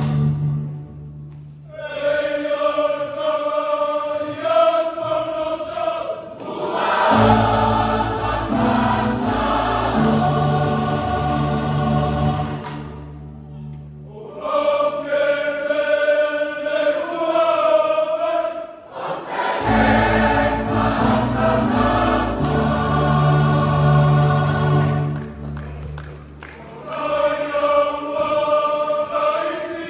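Church choir singing a hymn in several phrases with short breaks between them, over held low bass notes.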